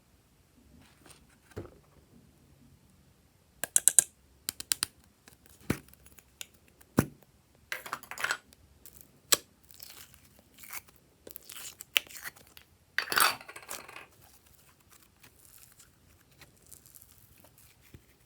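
Glossy slime being worked and mixed by hand, giving off irregular sharp pops, crackles and tearing sounds with quiet gaps between; the loudest clusters come about four seconds in and again near thirteen seconds.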